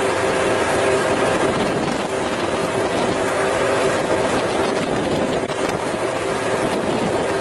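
Boat's engine running steadily: a constant drone with a few held hum tones over an even rushing noise.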